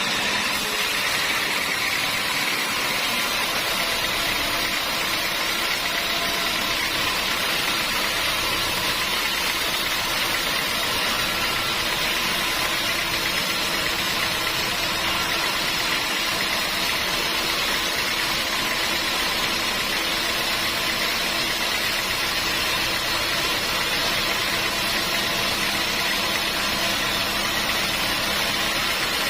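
Sawmill machinery running steadily, an even engine-like hum with a hiss over it and no change in level.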